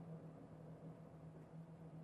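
Faint, steady low hum of a Hino Blue Ribbon shuttle bus running, one even tone that does not change.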